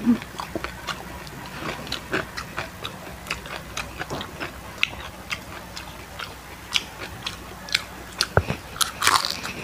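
Mouth chewing and crunching crispy deep-fried chicken skin: a steady run of short, sharp, irregular crackles, with a louder burst of crunching near the end.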